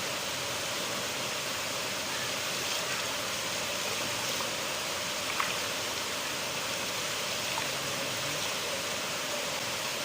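River water flowing steadily, an even rushing with a few faint splashes and ticks.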